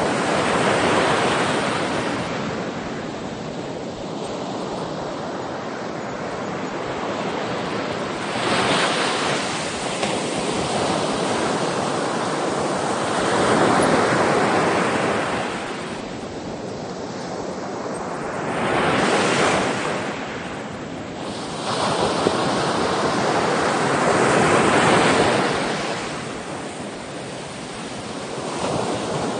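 Ocean waves breaking on the shore, the surf rising and falling in surges every four to six seconds, with a steady hiss between them.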